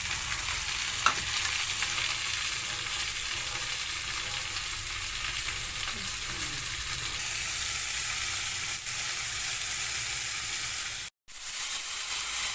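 Capsicum frying in oil in a pan, a steady sizzle, with a sharp click about a second in. The sound cuts out completely for a moment near the end.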